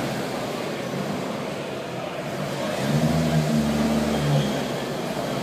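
A rally car's engine runs steadily for about a second and a half in the middle, loud above the constant background noise of a busy hall.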